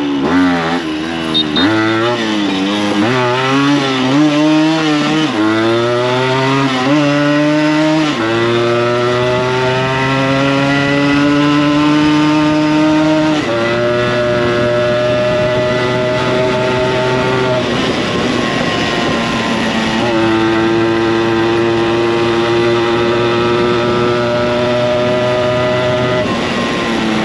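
Yamaha RX100's 98 cc two-stroke single with an aftermarket expansion-chamber exhaust, ridden hard. Quick rises and falls in revs for the first several seconds, then long pulls with the pitch climbing steadily and dropping back at each gear change, three times.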